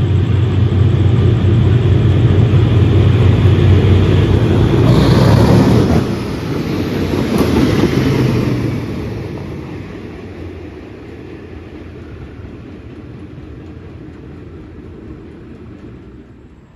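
A diesel train passing close by on the line: a loud rumble of engine and wheels on rails for about six seconds, a second swell around eight seconds, then fading steadily as it moves away.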